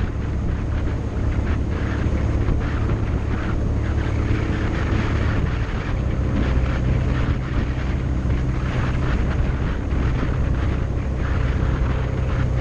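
Motorcycle engine running steadily while riding, with wind rushing past the microphone; the engine note shifts slightly about halfway through.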